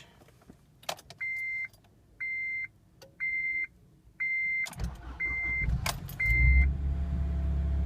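A click, then a car's warning chime beeping six times, about once a second. About five seconds in the starter cranks and the 2005 Acura RSX Type-S's 2.0-litre four-cylinder catches on a cold start and runs, a start the owner calls weak and hesitant.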